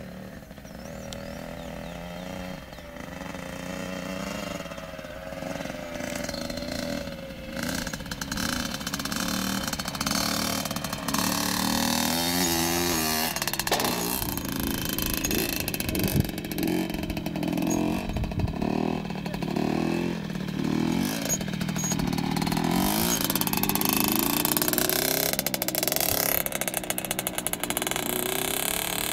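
Motocross dirt bike engine running and revving up and down again and again, growing louder over the first ten seconds or so.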